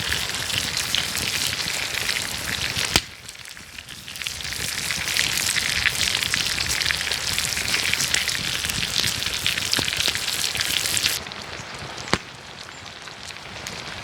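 Food sizzling and frying hard in a hot pan over a campfire. About three seconds in the sizzle breaks off at a sharp click and comes back a second later. Near the end it drops abruptly to a quieter, duller hiss with one more click.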